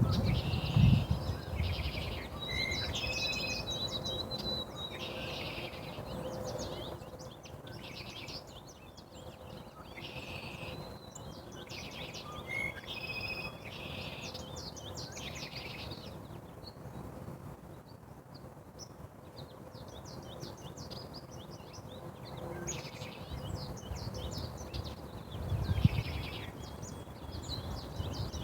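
Small birds chirping and singing in short repeated phrases, some with brief whistled notes, over a light outdoor background noise. A few low thuds come at the very start and again about 26 seconds in.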